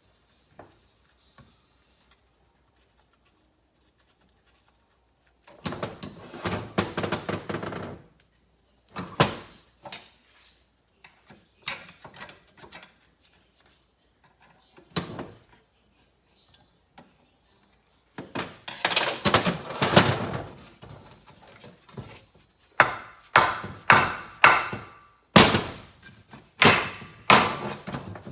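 Metal engine parts clattering and knocking as a motorcycle engine's internals are pulled apart by hand. Separate knocks come every second or two, and near the end there is a quick run of sharp knocks, roughly one or two a second.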